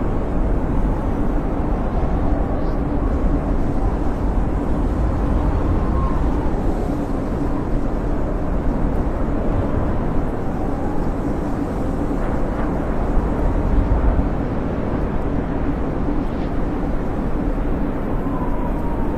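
Blizzard wind blowing steadily: a loud, low rushing rumble, with a faint whistle that wavers in pitch now and then.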